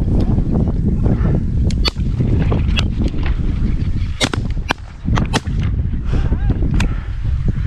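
Strong wind buffeting the microphone as a steady low rumble, with about six short sharp cracks scattered through it.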